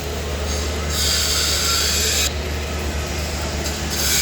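Electric arc welding: the hissing crackle of a welding arc, struck for about a second and a half, broken off, and struck again near the end, over the steady low hum of the welding machines.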